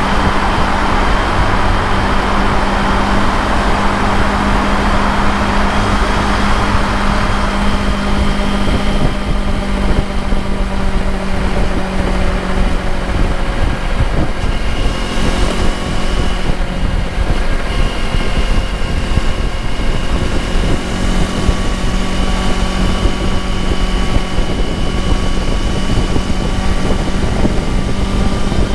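Motorcycle engine running at a steady speed on the highway, with a constant engine tone and wind rushing over the microphone. The wind is heaviest for the first seven or eight seconds, after which the engine's tones stand out more clearly.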